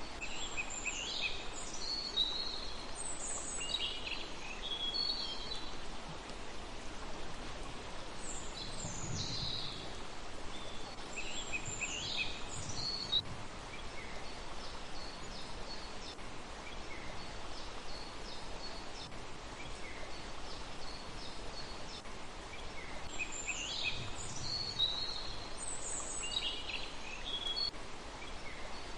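Small birds chirping in clusters of quick, high-pitched falling notes, at the start, around ten seconds in, and again near the end, over a steady outdoor hiss.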